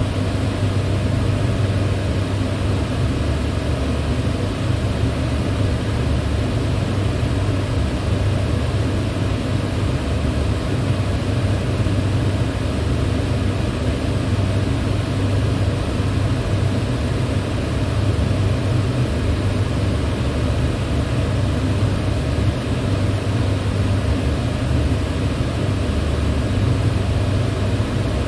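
Electric fan running steadily: an even rush of air over a strong low hum, with no change in speed or pitch.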